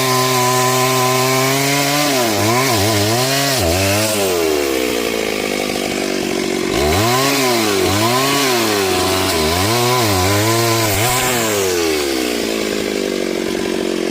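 Two-stroke chainsaw cutting into a tree. The engine holds a steady high speed, then its pitch dips and recovers several times. It drops to a low idle for a couple of seconds, then revs back up with about five rises and falls before easing lower near the end.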